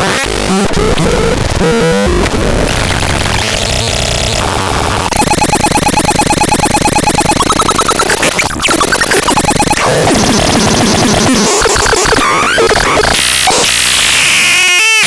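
Harsh electronic noise: dense, glitchy static and buzzing. From about five seconds in it turns into a rapid, even pulsing with steady pitched tones, breaks off briefly, then returns as a denser wash with pitched tones entering near the end.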